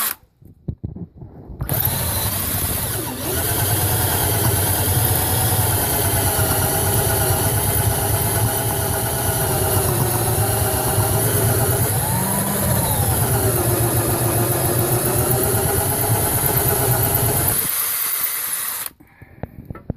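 Cordless Ryobi drill running under load with a general-purpose bit, drilling into a broken exhaust manifold bolt. The motor starts about two seconds in, holds a steady whine, and its pitch rises and dips about twelve seconds in before it stops shortly before the end.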